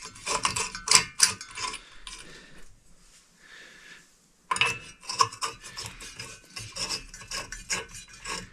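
Light bulbs being handled and screwed into a ceiling fan's light-kit sockets: a run of small clinks, scrapes and rattles of glass and metal, a quieter pause of about two seconds in the middle, then more clinking.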